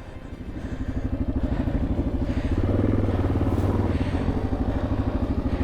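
Motorcycle engine running with an even firing pulse, getting louder and heavier over the first couple of seconds and staying strong through the middle.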